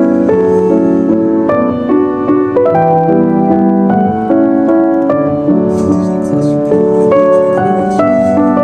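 Piano music, a flowing run of notes.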